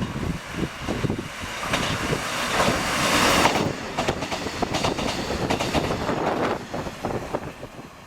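Passenger train passing close by on rail: a run of wheel clacks over the track and a rushing noise that builds to its loudest about three seconds in, then fades.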